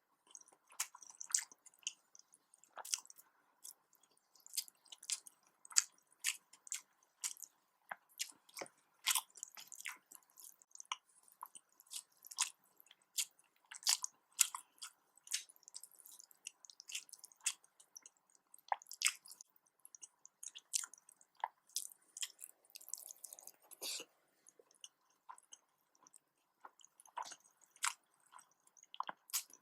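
A person chewing and eating nasi dagang close to the microphone: a dense, irregular run of wet mouth clicks and smacks, several a second.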